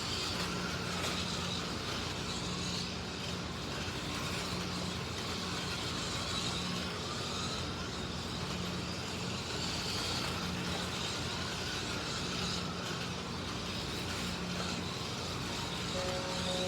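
Slot cars running laps on a plastic track: a steady electric motor whine with the hiss of tyres and pickup braids on the track, and a low hum that rises and fades every second or two as cars come round. A few short electronic beeps near the end.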